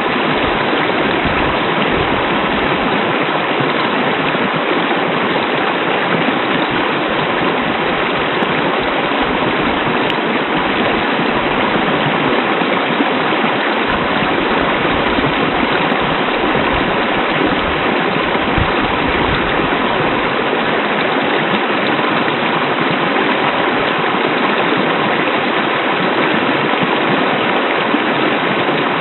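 Hot-spring waterfall, its water rushing and splashing steadily without let-up.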